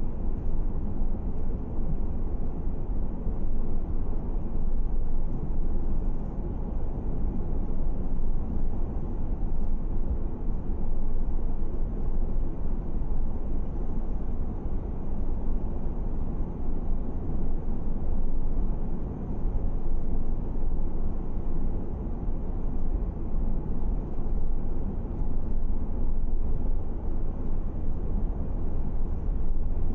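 Steady road and engine noise of a car driving at a constant speed, a low even rumble with no change through the stretch.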